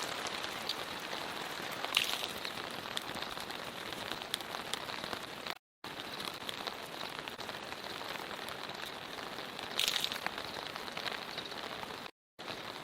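Loud, steady rain falling, with a couple of brief louder spatters. The sound drops out briefly twice.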